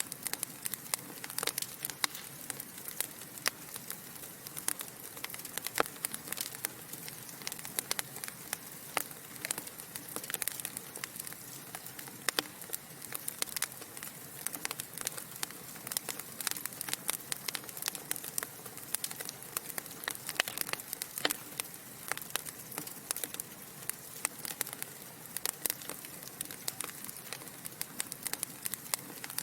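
Wood fire burning in a fireplace: a steady soft hiss broken by frequent, irregular sharp pops and snaps of crackling logs.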